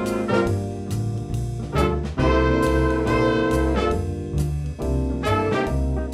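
A student band playing brass-heavy ensemble music: sustained chords that change every half second to a second, each with a sharp attack.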